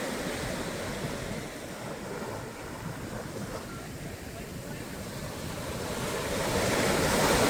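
Surf washing onto a beach, with wind buffeting the microphone; the wash grows louder near the end as a wave comes in.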